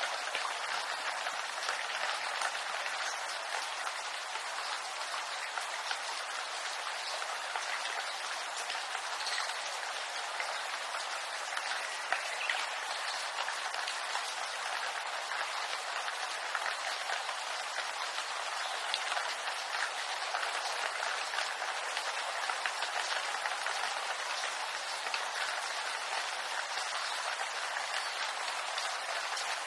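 Steady rain falling on a bamboo grove: an even hiss with small scattered drop ticks through it.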